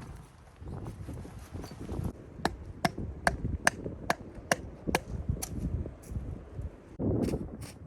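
Repeated strikes from a hand tool on wood: about nine sharp, evenly spaced blows, a little over two a second. Near the end comes a short scuffling noise with two more knocks.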